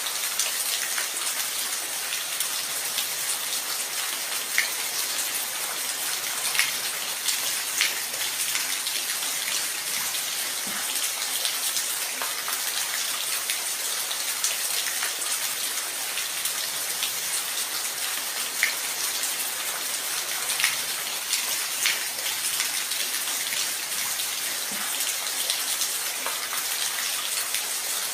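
Steady rain falling, a dense even hiss with scattered louder drops striking a surface.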